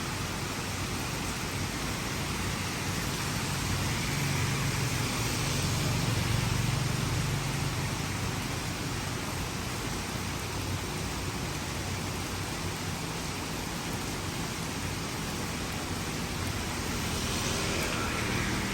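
Heavy rain hissing steadily, with a vehicle's engine swelling as it passes about four to eight seconds in, and another rise in the noise near the end.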